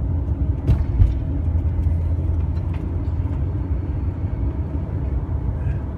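Road and engine noise heard from inside a moving van: a steady low rumble, with a brief knock about a second in.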